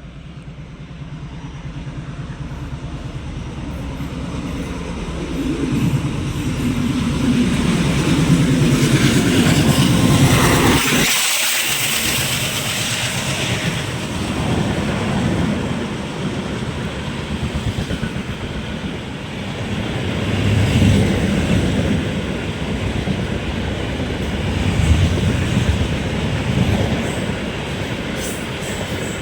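An express train hauled by an ALCO diesel locomotive approaching and passing at speed. The locomotive grows steadily louder and passes about ten to eleven seconds in. The coaches then rumble and clatter past, the noise swelling and easing as they go by.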